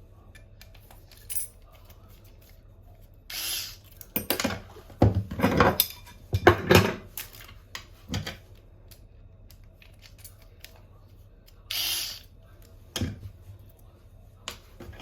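Hand tools and metal faucet fittings clinking and knocking irregularly during bathroom faucet replacement work, loudest between about four and seven seconds in, with two short rushing noises.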